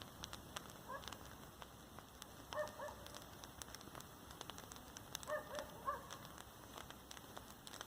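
Light rain pattering, with scattered sharp drop clicks. A few short pitched animal calls come through about a second in, between two and three seconds in, and twice between five and six seconds in.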